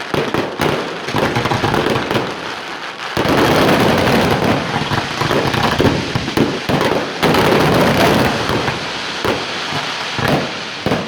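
Fireworks display: a rapid string of bangs and crackles that becomes a louder, denser, almost continuous barrage with a deep rumble about three seconds in.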